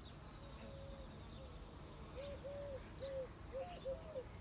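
A dove cooing faintly: a run of short, arched coos that starts about halfway through, with faint chirps of small birds.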